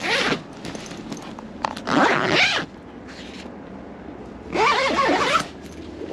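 Zipper on a canvas tent being pulled, three short runs a couple of seconds apart.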